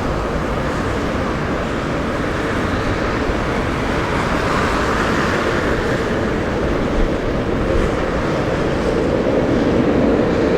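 Snow plow truck at work: a steady rushing noise of engine, tyres and plow blade pushing snow along the road, growing a little louder near the end.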